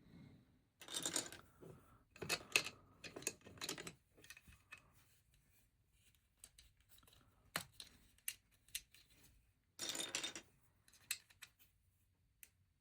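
Plastic LEGO pieces being handled and fitted together: bursts of clicking and rattling with single sharp clicks in between.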